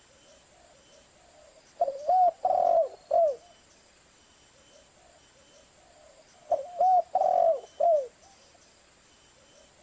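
Spotted dove cooing: two calls about five seconds apart, each a phrase of about four low coos with a longer note near the middle.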